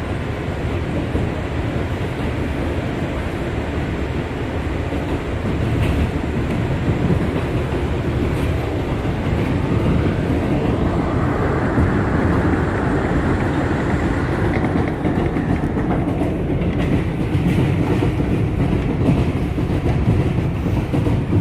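Bombardier R179 subway train running between stations, with steady rolling rail noise that grows louder about halfway through as it picks up speed.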